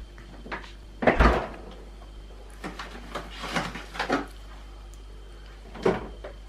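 Refrigerator door shut with a thud about a second in, followed by a few lighter knocks and rattles of things being handled.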